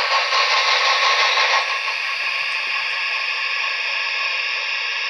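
Sound decoder of a Trix HO Southern Pacific Berkshire model playing a steady steam hiss through its small onboard speaker, louder for about the first second and a half, then settling to an even, slightly quieter hiss.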